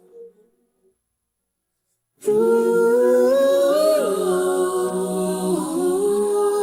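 Isolated vocal track of a rock song: near silence for about two seconds, then a wordless sung note held steadily, sliding down about a second after it starts and dipping again near the end.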